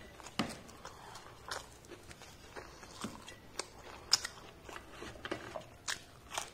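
Mouth close to the microphone chewing crisp deep-fried onion pakoras (piyaji): irregular sharp crunches every half second to a second, the loudest about four seconds in, and a fresh bite near the end.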